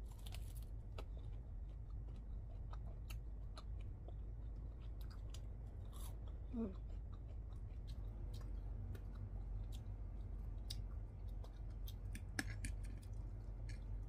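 Close-miked eating sounds: chewing and biting crispy fried shrimp, with scattered sharp crunches and mouth clicks over a steady low hum. A short voiced 'mm' comes about six and a half seconds in.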